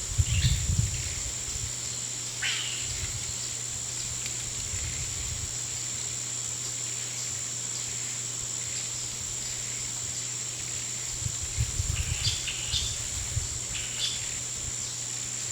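Outdoor nature ambience: a steady, high, insect-like drone over a low hum, with a short chirp about two seconds in and a cluster of short chirps and low thumps near the end.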